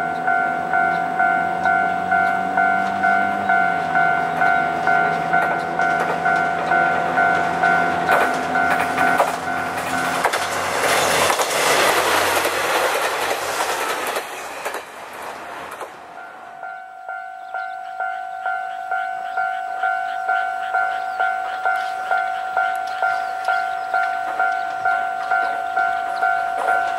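A level-crossing warning bell ringing steadily at about two strokes a second while a Kanto Railway diesel railcar approaches, its engine note stepping down a few seconds in. About ten seconds in the railcar passes close by in a loud rush of engine and wheel noise, and then the crossing bell is heard again.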